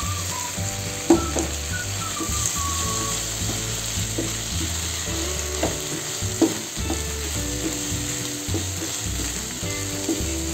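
Salted squid sizzling as it fries in chili spice paste in a nonstick frying pan, stirred with a wooden spatula that scrapes and knocks against the pan. The sharpest knocks come about a second in and again a little past six seconds.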